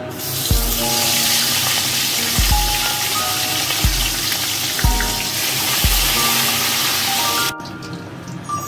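Fish heads sizzling as they fry in hot mustard oil in a wok, a dense steady hiss that cuts off suddenly about seven and a half seconds in. Background music with a low beat plays throughout.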